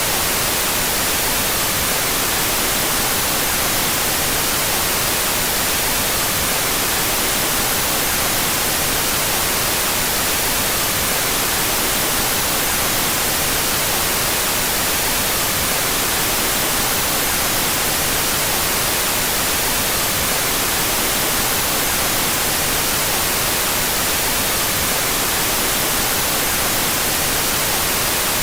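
Steady synthetic white noise: an even, unchanging hiss that is brightest in the high pitches. Its two stereo channels are in opposite phase.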